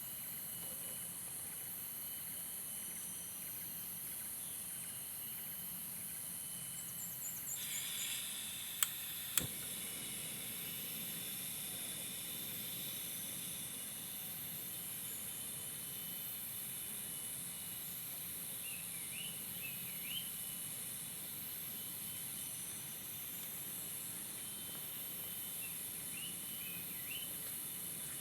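A steady, high, shrill chorus of insects, pulsing slightly, with a thin steady whine under it. Two sharp clicks come about nine seconds in, and a few short chirps are heard later on.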